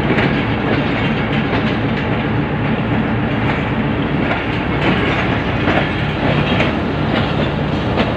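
Pakistan Railways passenger coaches rolling past close by: a steady rumble of wheels on rails with repeated clicks as the wheels cross rail joints.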